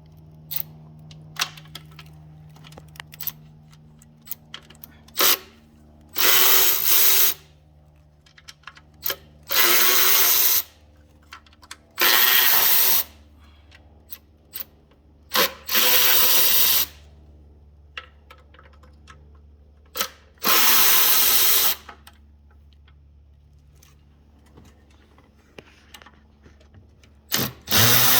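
Handheld power tool, such as a drill or impact driver, run in about six short bursts of a second or so each, with small metallic clicks and taps between the bursts.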